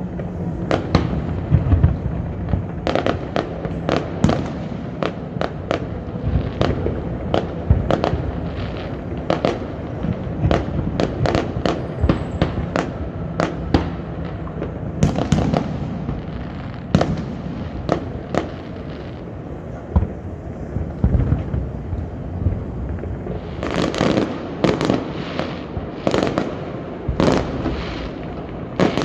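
Aerial fireworks display: a steady stream of sharp bangs and crackling bursts in quick succession, coming thickest in a rapid volley near the end.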